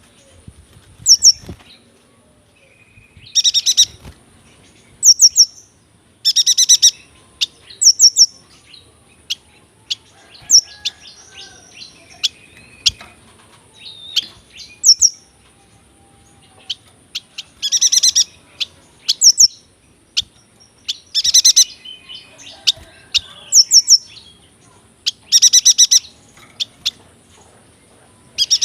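Yuhina singing: short, loud, high-pitched chirping phrases repeated every second or two.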